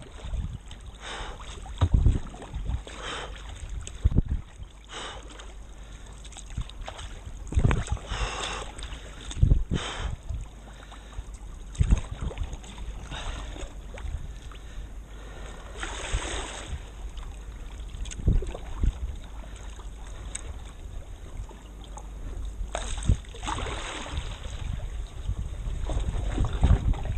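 Water splashing and slapping against a kayak at sea in irregular bursts every second or two, over a steady low rumble of wind on the microphone.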